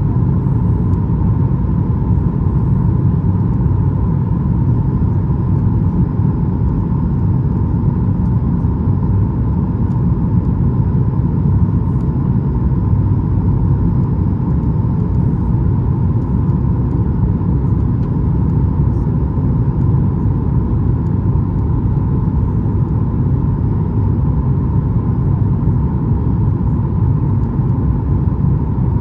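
Steady cabin noise inside a Boeing 737 MAX 8 in flight: a constant deep rumble of engines and airflow, with a steady whine over it.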